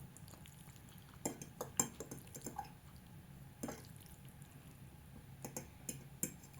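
Light kitchen clinks and taps, small utensil and dish knocks during food preparation, coming in two short clusters with a single knock between them, over a steady low hum.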